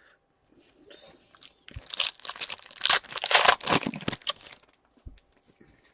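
Foil wrapper of an Upper Deck hockey card pack being torn open and crinkled. A burst of crackling starts a little under two seconds in and lasts about two and a half seconds.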